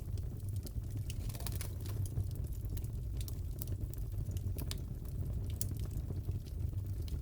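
Crackling wood fire in a fireplace: a steady low rumble with frequent sharp pops and crackles scattered irregularly throughout.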